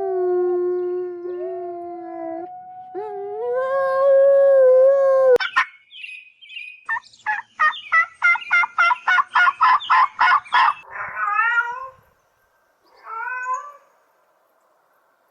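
Cat calling: two long, drawn-out yowls, the second higher. These are followed by a rapid run of short, repeated calls and a few short falling meows near the end.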